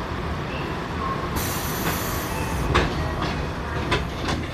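Tokyo Metro 7000 series subway car running, heard from inside: a steady rumble of wheels on rail, a hiss of about a second starting near the middle, and several sharp clacks from the rails in the second half.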